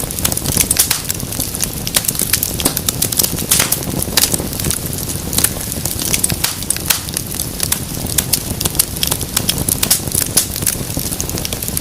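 Wood fire burning in a fireplace: a steady low rush of flames with frequent, irregular sharp crackles and pops of burning wood.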